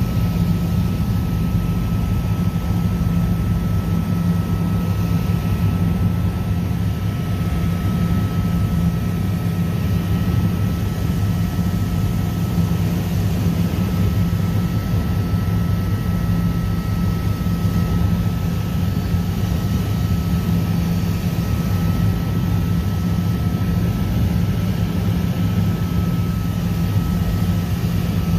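Helicopter in flight: the steady drone of its turbine engine and rotors, with a thin steady whine above the low rumble, unchanging throughout.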